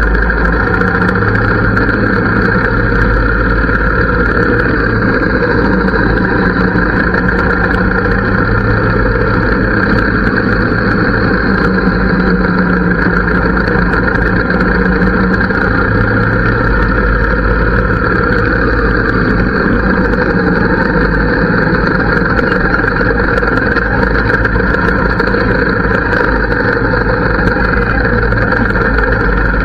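Harley-Davidson V-twin engine and exhaust running steadily at an even speed, with a low, deep engine note.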